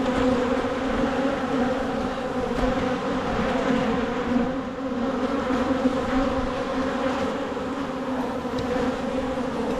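A mass of honeybees buzzing around an open hive in a steady, dense hum.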